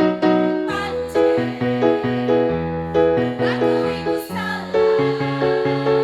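Electronic keyboard playing song accompaniment: chords and a bass line struck in a steady beat, with little or no singing.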